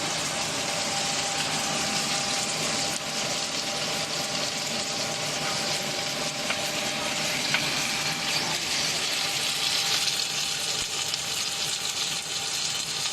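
Puffed-snack extrusion production line machinery running: a steady hiss with a faint constant hum and a few small clicks.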